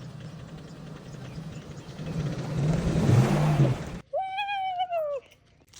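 Truck engine revving under load as it drives out of deep mud, growing louder over the first four seconds and cutting off abruptly. A single high call follows, falling in pitch over about a second.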